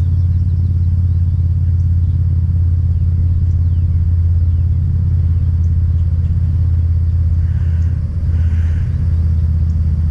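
Steady, loud low rumble that holds unchanged throughout, with faint brief higher sounds about eight seconds in.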